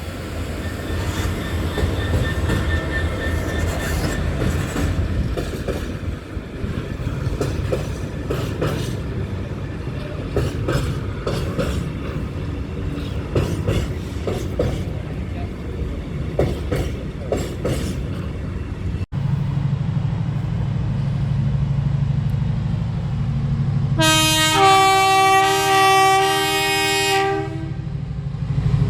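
A train passing on the rails, its wheels clicking over the rail joints. After a cut, a train's engine rumbles steadily, and about two-thirds of the way through its horn sounds a chord of several tones held for about three seconds.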